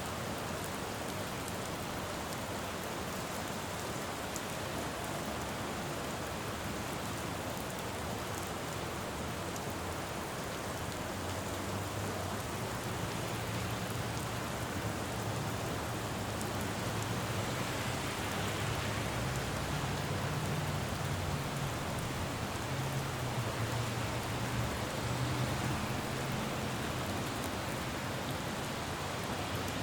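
Steady rain falling on a road. From about a third of the way in to near the end, a low vehicle engine hum rises under the rain and then fades.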